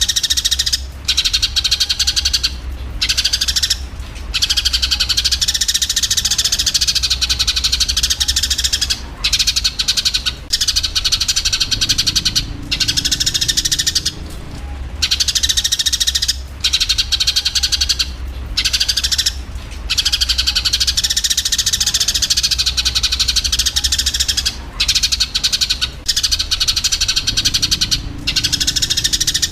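Eurasian tree sparrows in a rapid, dense, continuous fighting chatter of chirps, broken by short pauses every few seconds. A steady low hum runs underneath.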